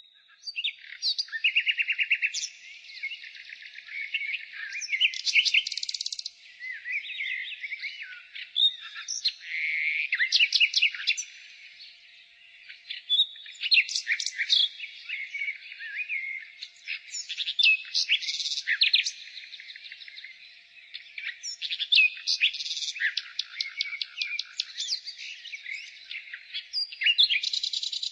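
Nightingale singing a long run of varied phrases: rapid trills, quick repeated notes and clear whistles, with short lulls between phrases.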